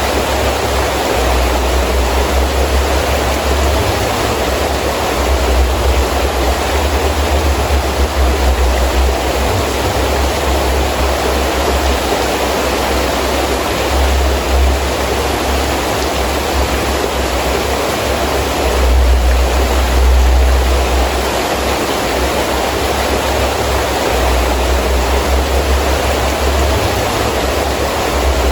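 Heavy rain falling steadily, with gusting wind that adds a low rumble, swelling and easing and strongest about twenty seconds in.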